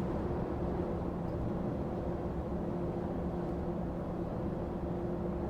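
Lorry cab at motorway speed with an empty trailer: a steady engine drone with a constant low hum over road rumble.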